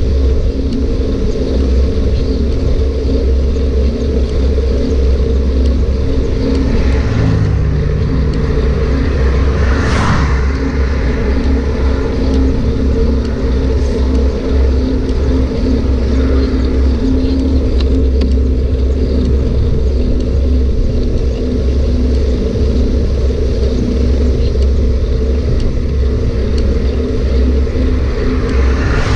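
Continuous loud low rumble of riding noise while cycling, with wind buffeting the microphone. A brief louder swell comes about ten seconds in.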